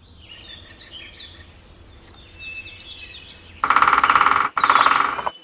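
Small birds chirping in short falling notes, then two loud woodpecker drum rolls near the end, each under a second long: a very fast, even rattle of strikes on wood.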